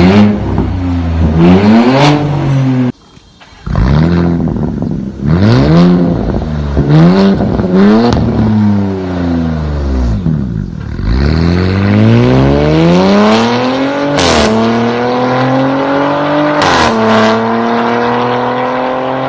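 Porsche Cayenne S 2.9-litre twin-turbo V6 through an aftermarket Velocita exhaust, revved hard again and again with a brief drop-out about three seconds in. It then pulls in one long rising run with two quick gear changes near the end, each marked by a sharp crack.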